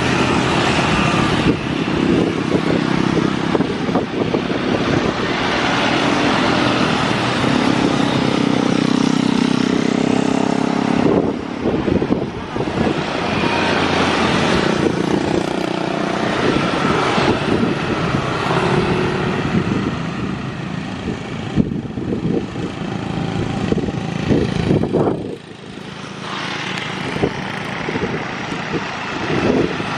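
Road traffic passing close by, motorcycles and cars going past one after another with changing engine notes and two brief lulls.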